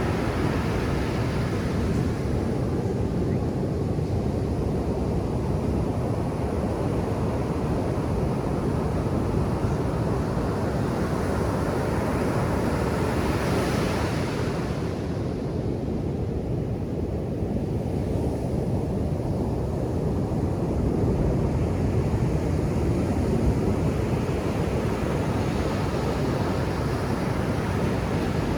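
Ocean surf on a sandy beach: a continuous rush of breaking waves, with a hissing wash that swells about halfway through and again near the end.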